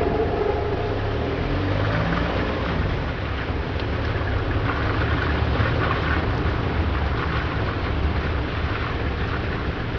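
A vehicle running with a steady low rumble under a continuous rushing noise.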